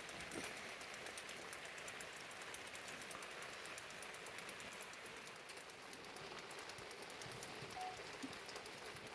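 Steady rain, fairly quiet, with a quick patter of small drops ticking close by.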